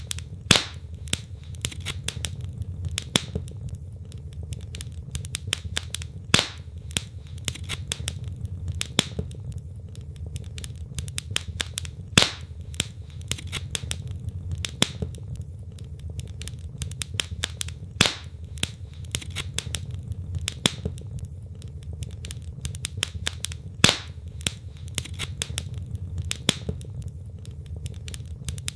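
Wood fire burning in a fireplace: logs crackling with dense, irregular small pops, a few sharper louder snaps among them, over a steady low rumble of the flames.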